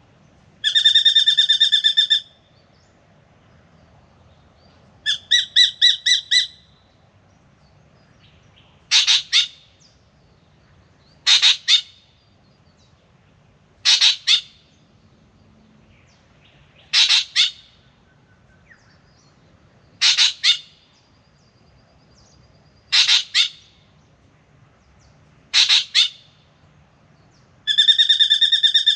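Spangled drongo calling: a long nasal, buzzy note near the start and again at the end, a quick stutter of notes about five seconds in, and between them a run of short, sharp paired notes repeated about every three seconds.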